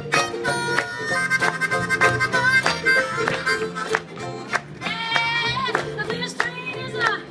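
Acoustic folk-blues band playing an instrumental break: a harmonica carries the melody with held, bending notes over steady rhythmic strumming and a walking bass.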